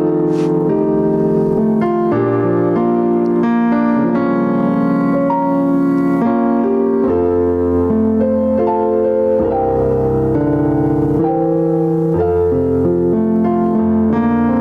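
Slow worship music played on a keyboard with a piano sound: sustained chords changing every second or so over a held bass line.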